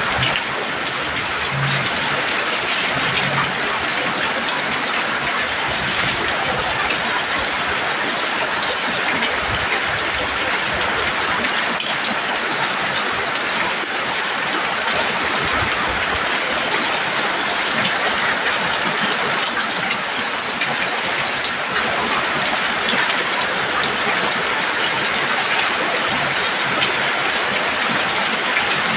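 Heavy rain falling steadily on a roof: a dense, even hiss with scattered sharper drop hits.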